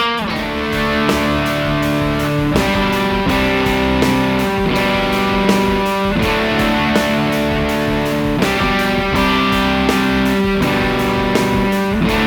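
2001 Fender Custom Shop Nocaster electric guitar being played: sustained chords with steady rhythmic picked strokes, the chord changing every few seconds.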